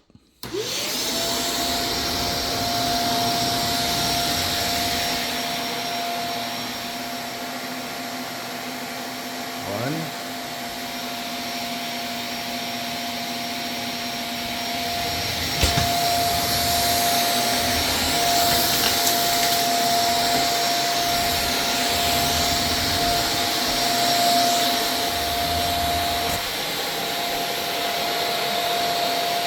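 Vacuum cleaner switched on about half a second in, its motor spinning up quickly to a steady whine and hum, then running on. A sharp knock comes about two-thirds of the way through, and the vacuum is a little louder after it.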